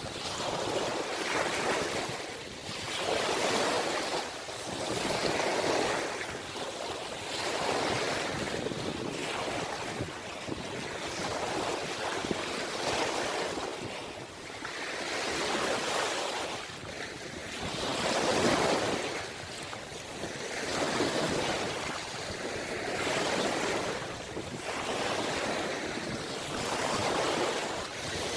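Ocean waves breaking and washing in, the surf swelling and falling back every two to three seconds.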